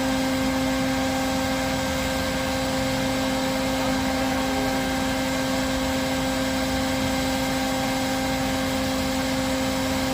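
A motor running steadily without a break: a constant hum with overtones over a rushing, air-like noise.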